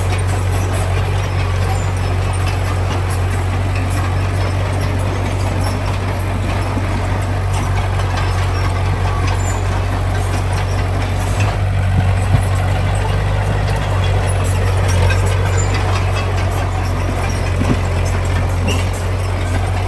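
Heavy diesel engine of earthmoving machinery running steadily with a deep drone, with a few short knocks just past the middle.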